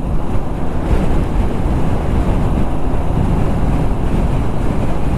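Loud, steady wind rush buffeting the microphone of a rider on a moving motorcycle, heaviest in the low end.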